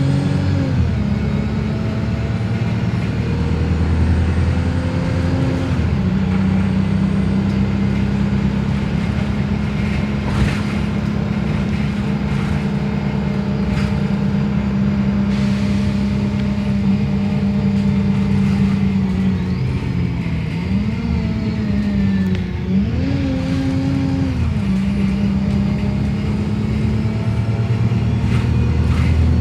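Wrightbus Streetlite DF single-decker bus under way, its engine running with a steady note for long stretches over road noise. About two-thirds of the way through the engine pitch drops and climbs again a few times as the bus changes speed.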